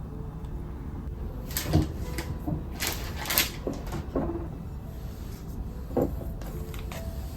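A handful of light knocks and clicks from things being handled around the home, like a cupboard door or drawer being opened and shut. About six of them come between roughly one and a half and six seconds in, over a steady low background hum.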